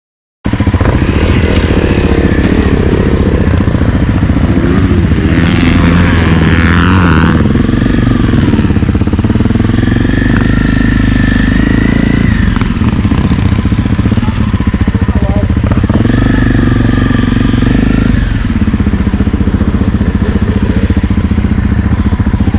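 Honda CRF250L's 250 cc single-cylinder four-stroke engine running as the bike is ridden, revving up and easing off several times. It starts suddenly about half a second in.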